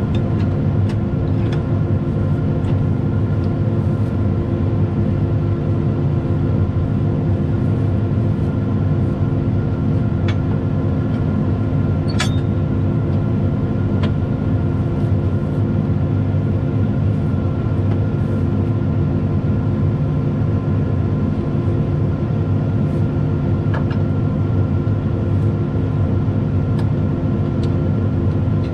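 Large diesel engine running steadily at idle, with a few light metallic clicks over it.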